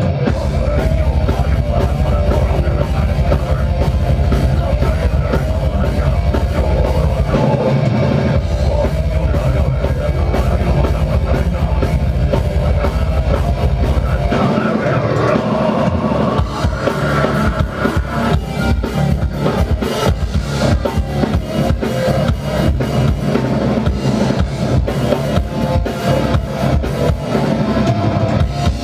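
Metal band playing live: fast, dense drumming on a drum kit under heavy guitars and bass. The deep low end stops briefly about a quarter of the way in and drops away about halfway, where the drumming grows busier.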